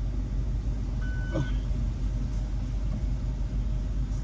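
Car engine idling, heard as a steady low rumble inside the cabin, with one short high beep about a second in.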